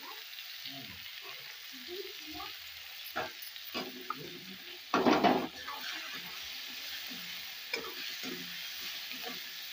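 Chopped onions and tomatoes sizzling in hot oil in a steel kadhai, stirred with a metal spoon that scrapes against the pan in irregular strokes, with one louder scrape about halfway through.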